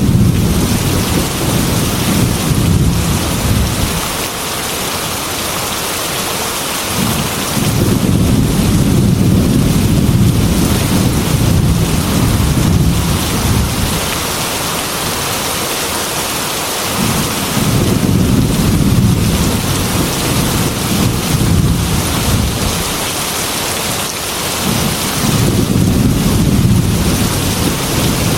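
Heavy rain falling steadily, with rolling thunder that swells and fades in long, deep rumbles about every five to ten seconds.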